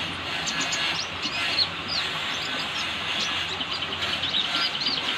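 Sunbird ('kolibri') singing: rapid high-pitched chirps and twittering runs of short notes, some sliding in pitch, over a steady hiss.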